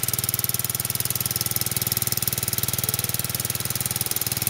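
Lawn Chief lawnmower's small engine running steadily with a fast, even firing beat, just started for the first time this spring after sitting over winter.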